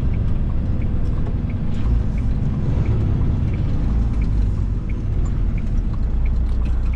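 Inside the cab of a Freightliner FLD120 under way: its Cat 3406E inline-six diesel running steadily, with road and tyre rumble. A faint regular tick comes about one and a half times a second.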